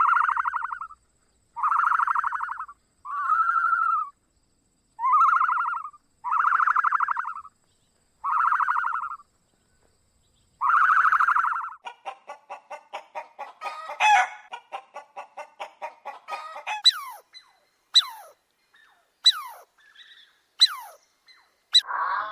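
Chickens calling: a series of about eight rasping calls, each under a second, then a quick run of short clucks, then several sharp falling chirps about a second apart near the end.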